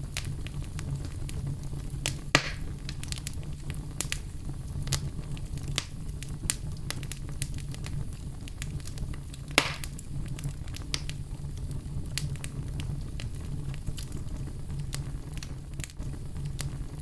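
Wood fire in a fireplace crackling, scattered sharp pops over a steady low rumble of the flames, with two louder pops, one about two seconds in and one a little past the middle.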